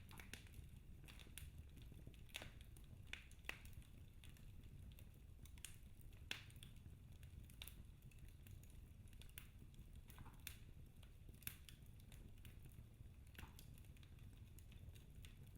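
Wood fire in a fireplace crackling faintly: sparse small pops and snaps of burning logs, a few a little sharper, over a low steady rumble.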